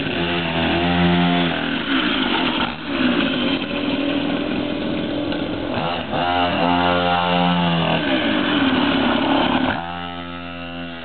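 Small engine of a mini dirt bike being ridden, revving up and falling back several times with short dips between pulls, then easing to a lower, quieter note about ten seconds in.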